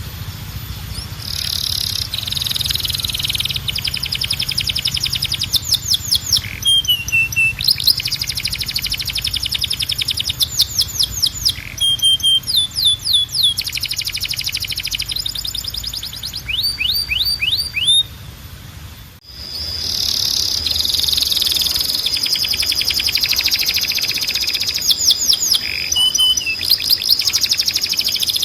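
Timbrado canary singing its rolling song: long runs of fast, evenly repeated notes, some of them falling quickly in pitch, with a short break about two-thirds of the way in.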